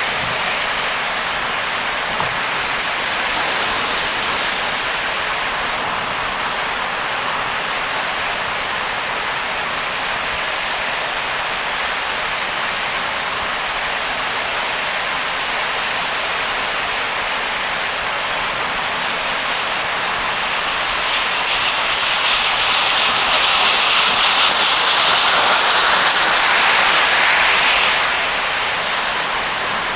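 Heavy rain and car tyres hissing on a soaked expressway, a steady rush of water noise that grows louder for about six seconds near the end.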